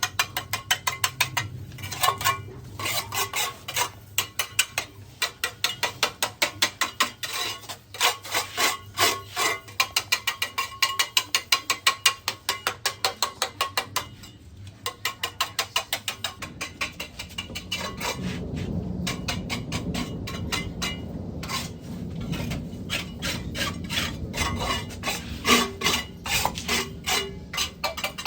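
A hand tool working on plumbing in fast runs of ratcheting clicks, about four to five a second, broken by short pauses. It carries on in the second half with a low rubbing underneath.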